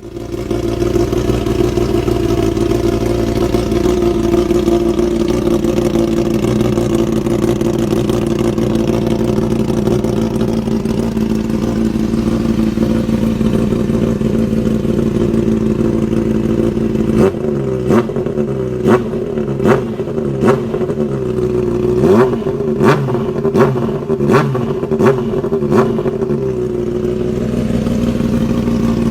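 Honda CBR600RR inline-four through an aftermarket exhaust, idling steadily. About two-thirds of the way through, a rapid series of about a dozen short throttle blips, then it settles back to idle.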